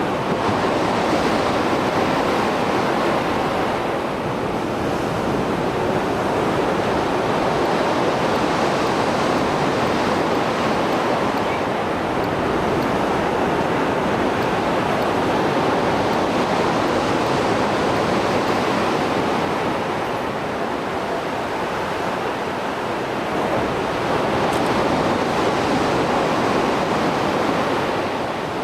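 Mediterranean Sea surf washing onto the shore after a storm: a steady rush of water that swells and eases in slow surges every seven to ten seconds.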